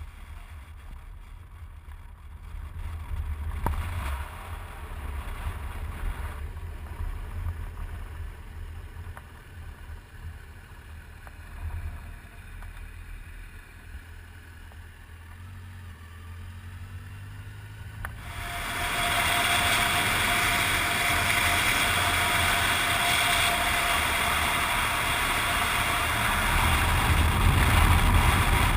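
Motor vehicle engine running with a low rumble. About two-thirds of the way through, a much louder, steady rushing noise with a constant hum sets in and keeps going.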